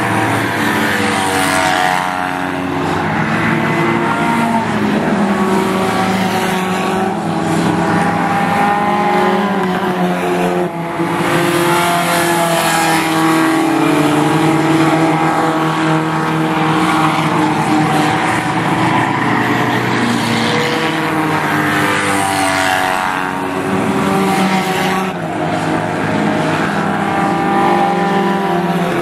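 A field of race cars running together, several engines at once with overlapping pitches that rise and fall as the cars accelerate and pass, a rising sweep recurring every few seconds.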